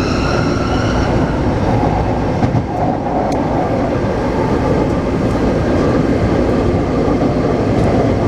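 Taipei Metro C381 train running between stations: a steady rumble of wheels on the track, with a whine in several pitches from the traction motors fading out about a second in.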